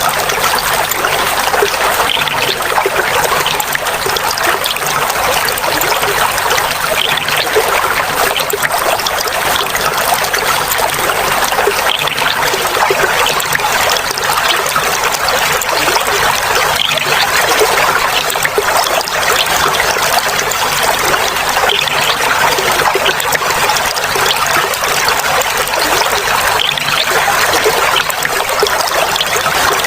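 Clear flowing water trickling and splashing steadily in a continuous, even babble.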